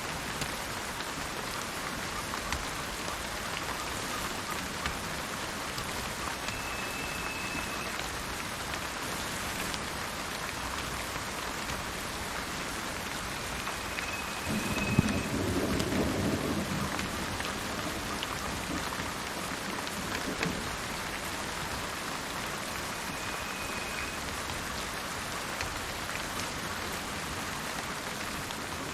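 Steady rain falling, with a roll of thunder about halfway through that swells and fades over two or three seconds. Three short, high, whistled bird notes sound at intervals over the rain.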